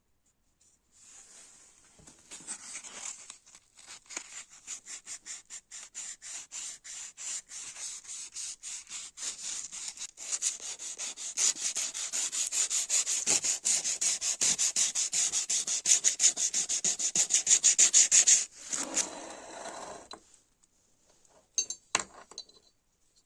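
An abrasive is rubbed back and forth by hand over a part in quick, even strokes, about three a second. The strokes grow louder and stop after about eighteen seconds. A short scrape and a couple of sharp clicks follow near the end.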